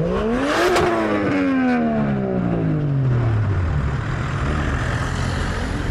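Car engine revving: its pitch climbs sharply in under a second to a brief crack at the top, then falls away slowly over about three seconds and settles into a steady low running note.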